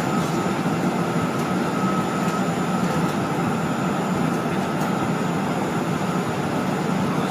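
Steady cabin noise of a jet airliner: an even rush of engine and airflow with a low hum and a faint steady whine above it.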